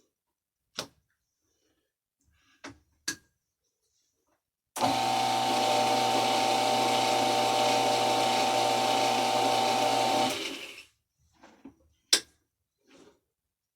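Metal lathe switched on and run under power for about five seconds on a light threading pass with a single-point Acme tool, steady with a constant hum, then switched off and spinning down briefly. A few sharp clicks and clunks before and after it.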